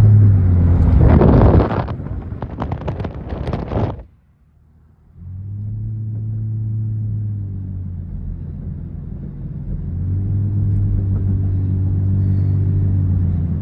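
Vehicle engine running while driving, a low hum that rises a little in pitch twice, as when accelerating. A burst of clattering noise over the first few seconds gives way to a brief near-silent dropout about four seconds in, before the engine hum returns.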